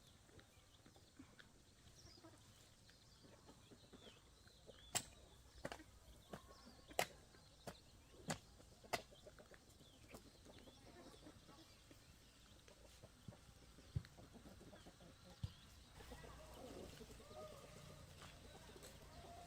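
Quiet outdoor ambience with faint bird calls. A run of sharp knocks or taps comes about five to nine seconds in, a couple more follow later, and faint clucking-like calls start near the end.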